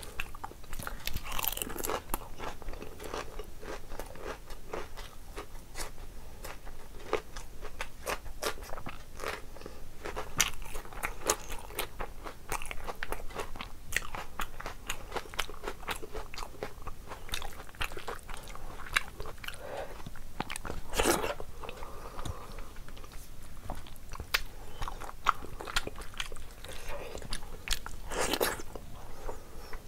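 Close-miked eating sounds of a person eating rice and curry by hand: wet chewing, lip smacks and mouth clicks with occasional crunches, irregular throughout, with a few louder bites about 1.5, 10, 21 and 28 seconds in.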